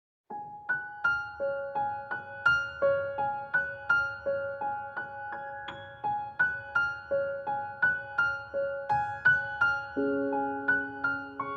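Instrumental intro of a pop ballad: a piano plays a repeating figure of short single notes, about three a second, and a held lower chord comes in near the end.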